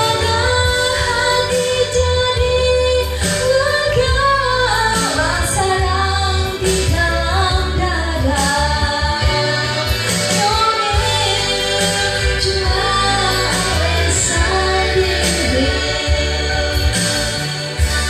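A woman singing a pop love song over a backing track with a steady bass line and a drum beat.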